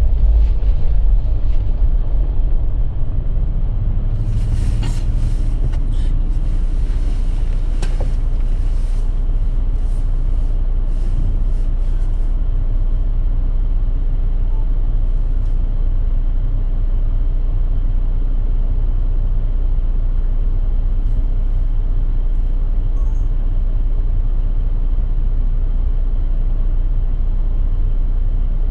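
Motor vehicle running with a steady low rumble, with scattered crackles and clicks during the first twelve seconds or so.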